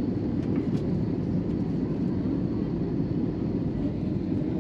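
Steady cabin noise inside an Airbus A321 airliner: the even rumble of the jet engines and airflow, heaviest in the low range.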